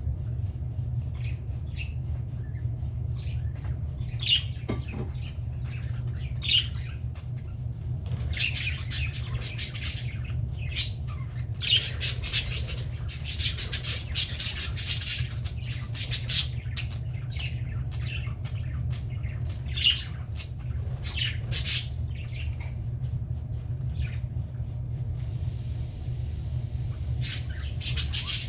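Budgerigars chattering and squawking: scattered short calls, with a busier stretch of chatter through the middle, over a steady low hum.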